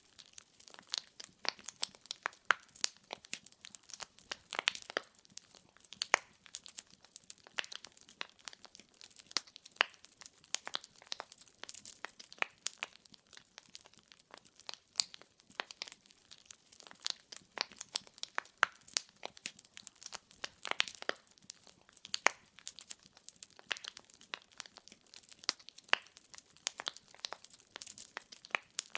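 Firewood logs crackling and popping as they burn in a fireplace: a dense, irregular run of sharp snaps over a faint hiss, with the odd louder pop.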